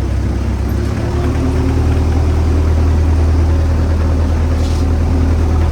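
Boat engine running steadily with a deep hum, getting louder about a second in.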